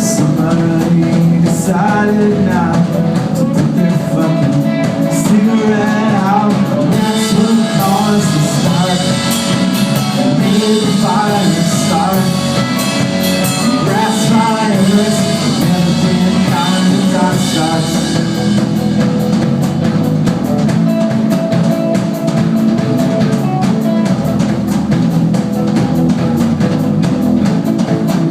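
Live rock band playing, with guitars and a drum kit keeping a steady beat and a wavering melodic line over the top.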